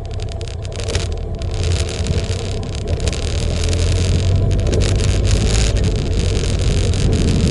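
Motorcycle under way: a steady low engine rumble under the rush of wind and road noise, growing louder over the first few seconds.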